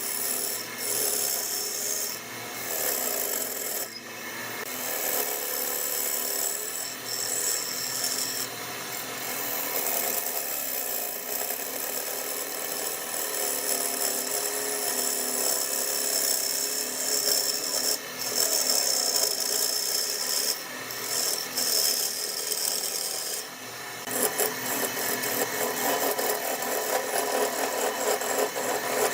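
Spinning wood on a lathe with a hand tool scraping against the workpiece, a continuous rasping that varies in strength and breaks off briefly a few times.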